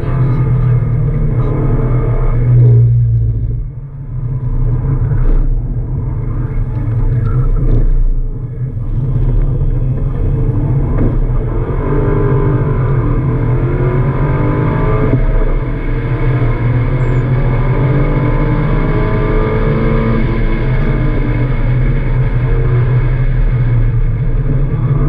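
Subaru Impreza WRX's turbocharged flat-four engine heard from inside the cabin while driven hard on a track, its revs rising and falling through the gears. The revs drop briefly about three seconds in and again about eight seconds in, then swing up and down through the middle.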